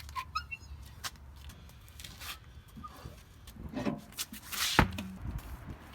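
Hand-tool work on a 2003 Jeep Wrangler's rear tire carrier: scattered clicks and knocks, with one sharp, loud clunk near the end.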